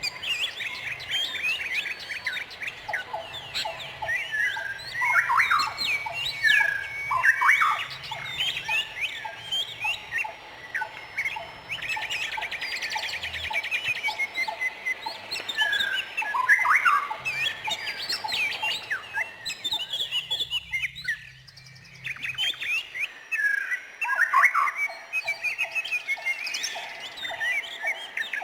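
Several songbirds chirping and calling over one another in quick, overlapping phrases, with a rapid trill about twelve seconds in and a brief lull about two-thirds of the way through.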